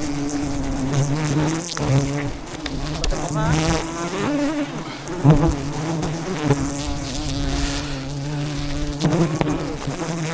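Dense, steady buzzing of a swarm of giant honey bees (Apis dorsata) defending their comb, with the pitch rising and falling now and then as bees pass close.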